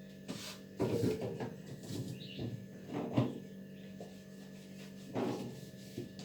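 A fridge's freezer compartment being opened and handled: a series of short knocks and scrapes, with a steady low hum underneath.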